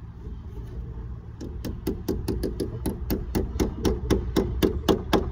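Hammer driving an annular ring shank nail through lead capping and a copper washer into a wall plug: a fast, even run of light taps, about six a second, starting a little over a second in.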